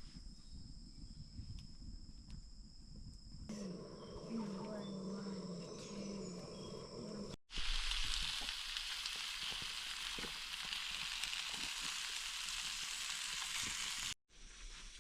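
Food sizzling in a cast-iron pan over a campfire: a steady loud hiss with scattered pops, from about halfway through to near the end. Before it come quieter stretches with a steady high-pitched whine and a brief low wavering sound, separated by abrupt cuts.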